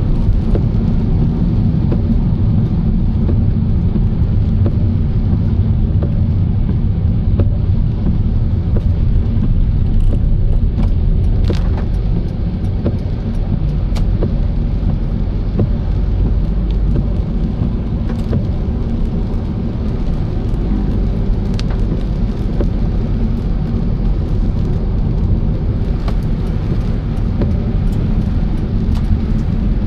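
Car driving steadily, a constant low rumble of engine and road noise, with scattered light ticks.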